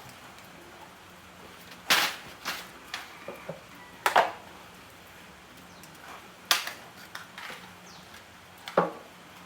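Sharp knocks: four loud ones a couple of seconds apart, with lighter taps between them.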